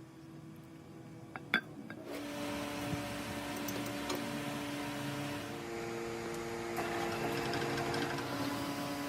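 A workshop machine starts running about two seconds in and keeps going with a steady hum and whine, its pitch shifting a little partway through.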